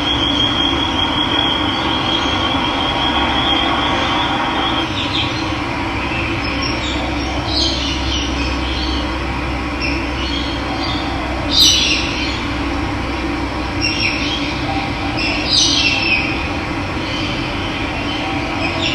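Running water making a steady rushing sound, with birds calling over it: a high trill for the first few seconds, then several short, sharp calls, the loudest about two-thirds of the way through.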